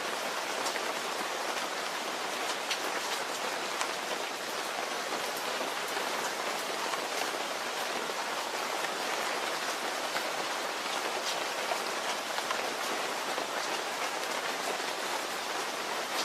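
Steady rain falling, an even hiss of rainfall with scattered individual drops ticking on a surface.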